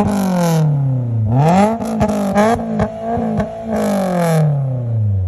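Honda S2000's four-cylinder engine, heard through a Skunk2 aftermarket exhaust and test pipe, revved hard toward 8,000 rpm: the pitch jumps up and falls away, then jumps up again about a second in and holds high with a choppy stutter before sliding back down toward idle near the end.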